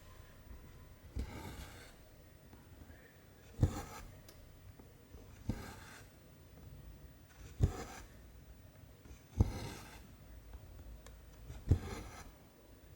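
Cross-stitch needle popping through a 14-count cotton canvas, then the cotton thread drawn through with a short rasping rub, six times, about every two seconds.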